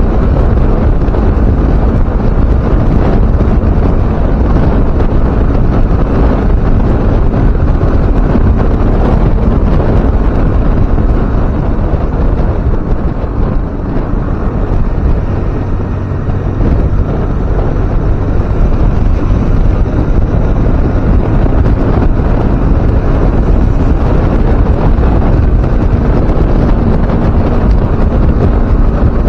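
Loud wind rushing over the microphone of a moving motorcycle, with the engine running steadily underneath.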